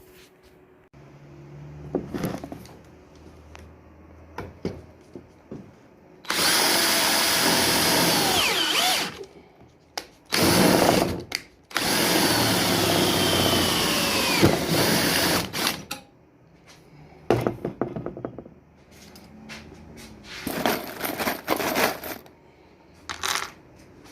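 Electric power drill run in three bursts of a few seconds each, with handling clicks and knocks in between.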